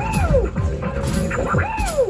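Arcade basketball machine's game music: a looped electronic tune with a swooping pitch figure that repeats about every second and a half over a steady beat.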